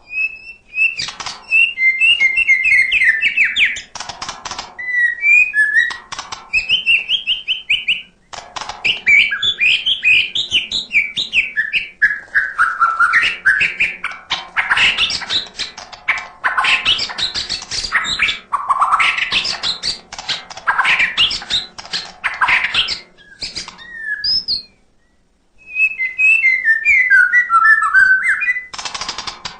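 White-rumped shama (murai batu) singing at full voice: fast runs of varied whistled phrases mixed with sharp clicking notes, with a short break about three-quarters of the way through.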